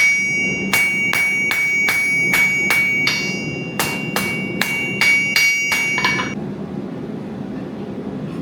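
A hand hammer striking metal on an anvil, about three blows a second, each with a clear metallic ring. There is a short break a little after three seconds, and the hammering stops about six seconds in, leaving a steady low hum underneath.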